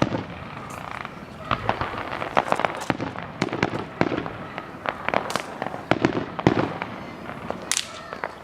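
Fireworks going off: a rapid, irregular string of sharp bangs and pops, several of them louder than the rest.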